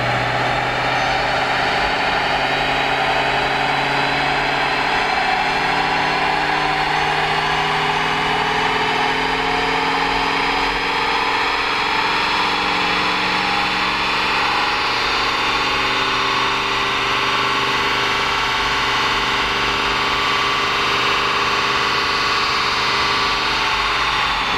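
Porsche 911 flat-six running steadily at part throttle on a chassis dyno to bring the oil and coolant up to temperature; the engine note climbs slowly and drops just at the end.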